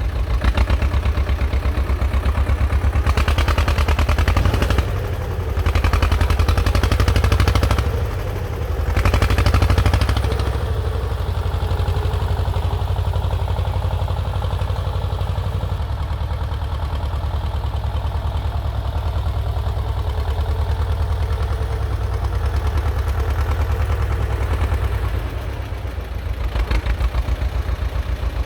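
T-16 self-propelled chassis tractor's two-cylinder air-cooled diesel chugging with an even low pulse, working hard while pulling out stumps. It swells three times in the first ten seconds, then runs steadily, easing off briefly near the end before picking up again.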